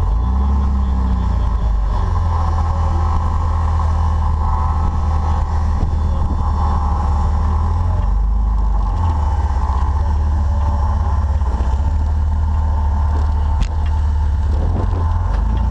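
Off-road Jeep's engine running loud and steady under load, starting abruptly.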